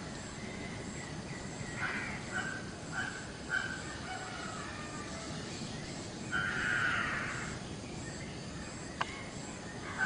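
Birds calling outdoors: a few short calls about two to three and a half seconds in, then one louder, rougher call around seven seconds, over a steady hiss. A single sharp click comes about nine seconds in.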